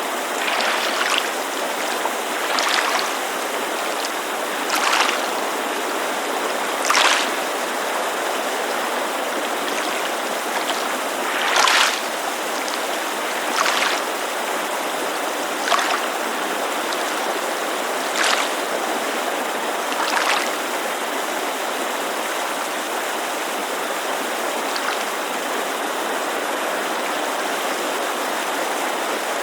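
Small waves lapping against a lakeside shore, a soft splash every two seconds or so, over the steady rushing of a mountain creek. The laps die away for the last several seconds, leaving only the creek.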